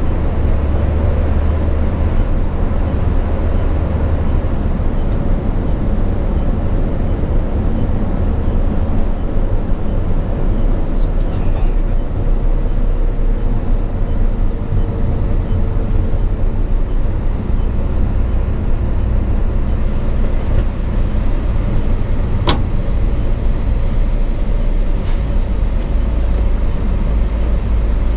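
Cab noise of a Hino 500 FM 260 JD ten-wheel diesel truck under way: a steady engine drone and road rumble, with the engine note shifting twice. A single sharp click about two-thirds of the way through.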